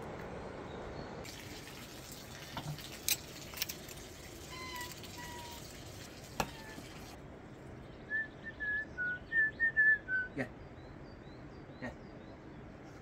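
A small bird singing a quick phrase of about nine short, clear notes about two-thirds of the way through, over a steady outdoor hush. A few sharp clicks come earlier.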